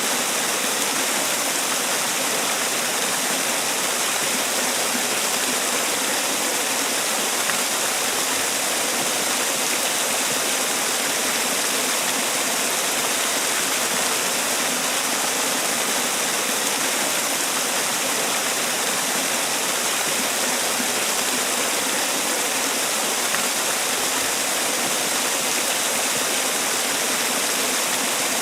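Man-made waterfall: water falling and splashing in a steady, even rush, with no change.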